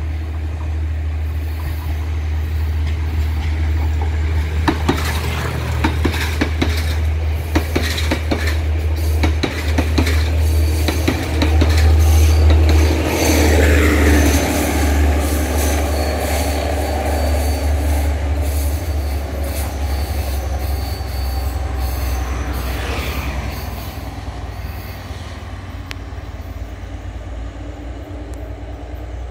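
Sri Lanka Railways Class S10 diesel multiple unit accelerating past close by, a steady low drone with a run of sharp wheel clicks over the rail joints. It is loudest about halfway through as the coaches pass, with a falling note, then fades as the train moves away.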